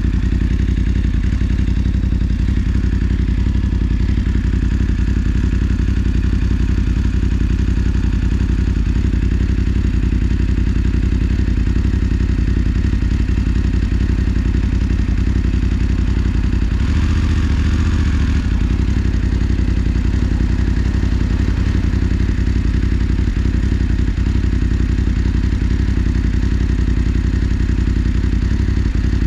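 BMW F 850 GS Adventure's parallel-twin engine running steadily, with a brief change in its note about seventeen seconds in.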